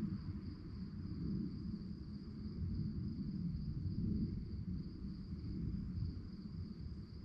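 Crickets chirping in one continuous, high, steady trill, over a low, uneven background rumble.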